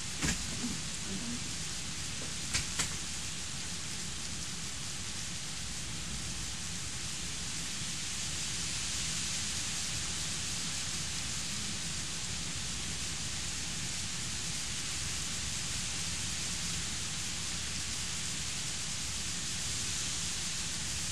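Heavy thunderstorm rain falling steadily as an even hiss, swelling slightly about eight seconds in. There is a sharp click just after the start and two more about two and a half seconds in.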